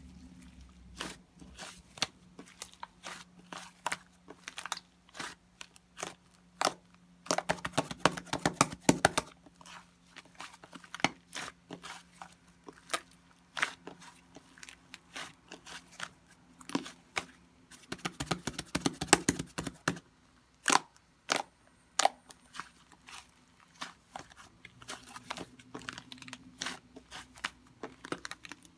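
Mixed slime being pressed and squished by hand, giving a steady run of sharp crackles and pops, with two thicker flurries of crackling about a third and two thirds of the way through.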